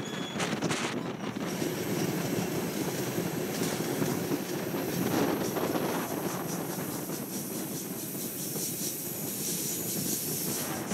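Rocky Mountaineer passenger train running along the track: a steady rumble of wheels on rail mixed with rushing air, heard from aboard the moving train.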